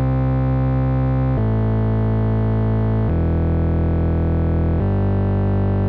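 Synthesizer playing four long, low bass notes one after another, each held about a second and a half before stepping to a new pitch.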